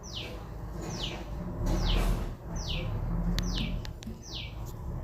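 A bird calling repeatedly: a short high note sliding downward, about once a second, with a low rumble underneath.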